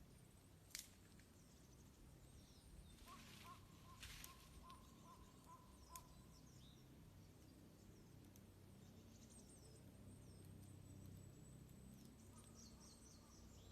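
Small birds chirping and twittering faintly, with a few sharp crackles from a wood campfire.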